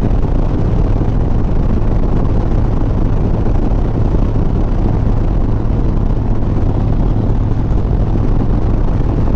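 Harley-Davidson Sport Glide's V-twin engine running at a steady cruise, with wind rushing over the helmet microphone.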